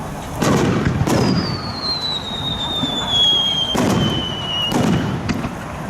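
Fireworks display: aerial shells bursting with booms, two close together about half a second and a second in and two more near the end. Between them a long, high whistle falls slowly in pitch for about three and a half seconds.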